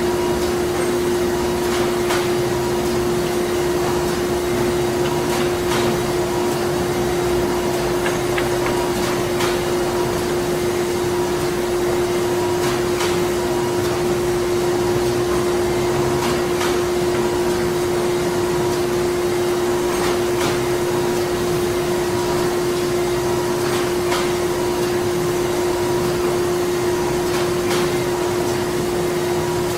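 Printing-factory machinery running steadily: a constant drone with a strong steady hum, and occasional faint clicks.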